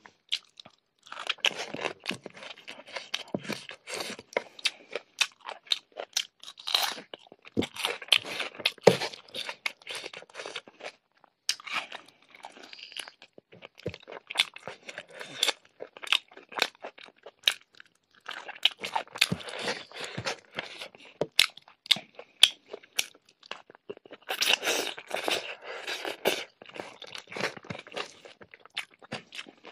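Close-miked chewing of a mouthful of rice, pork curry and raw vegetables, with crisp crunches and wet mouth clicks coming in bursts with short pauses between them.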